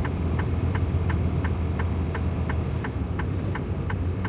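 A semi truck's turn signal ticks steadily, about three ticks a second, inside the cab of a 2024 Freightliner Cascadia. Under it the truck's diesel engine runs with a steady low hum.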